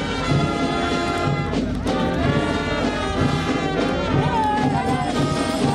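Brass music playing, with held horn notes over a steady, regular beat.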